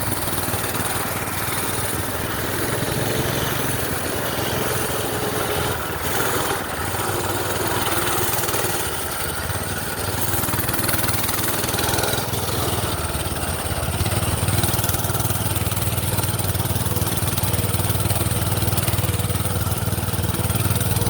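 Minibike's small gas engine running steadily, with a constant low hum under a wide rushing noise.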